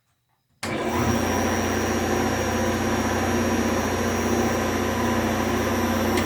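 1983 Delta-Rockwell heavy-duty wood shaper running under power on its 2 horsepower single-phase motor: a steady hum with a thin high whine that comes in abruptly about half a second in.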